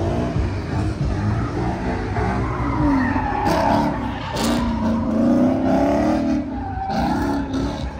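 Car tyres squealing in a burnout, a wavering shriek that rises and falls in pitch over the engine's steady rumble.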